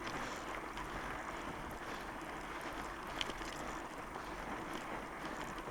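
Fat bike riding out of the saddle on a snow trail: a steady hiss of the wide tyres rolling over snow, mixed with wind on the microphone, and a single click about three seconds in.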